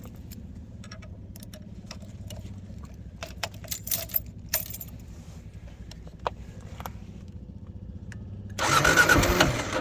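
Clicks and rattles of keys and gear being handled over a steady low hum, then, about eight and a half seconds in, a motorcycle engine starting loudly, its pitch rising and falling once.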